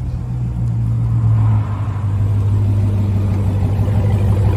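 Red Dodge Charger's engine running with a deep, steady exhaust rumble as the car rolls slowly past close by, growing a little louder in the first second or so.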